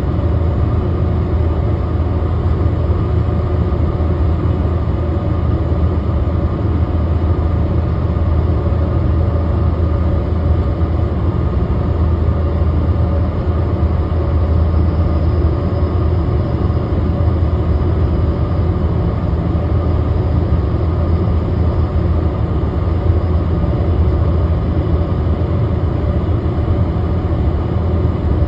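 Truck on the move at a steady speed: a constant loud low drone of engine and road noise that does not change.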